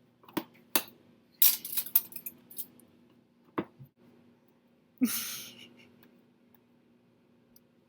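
Dishes and cutlery clinking and knocking in an open dishwasher: several sharp taps in the first few seconds, then a short rattle about five seconds in.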